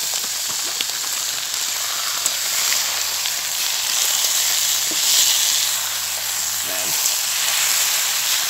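Duck and partridge stir fry sizzling in a pan, with chicken curry just added, and a few light clicks of stirring.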